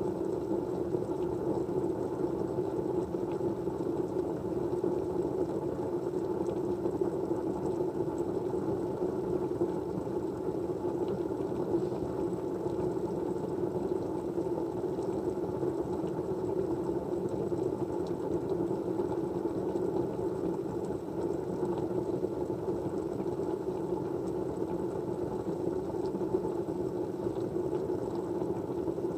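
Steady, even low-pitched background noise of a white-noise ambience, unchanging throughout, with faint scattered light ticks over it.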